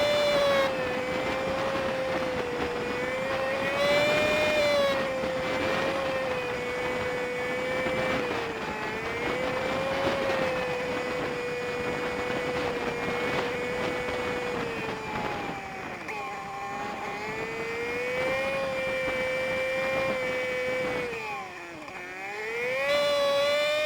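Honda Super Cub 50 single-cylinder engine under way, heard sped up fivefold so it runs as a high, steady whine. The pitch wavers with throttle, dips about two-thirds of the way in, then drops sharply near the end as the bike slows and climbs again as it pulls away.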